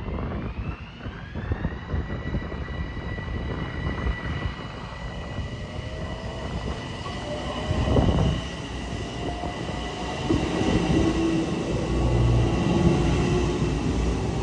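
Metro-North train running past on the rails, a steady rumble with a whine that rises in pitch over the first couple of seconds and then holds steady. The rumble swells briefly about eight seconds in and grows louder again near the end.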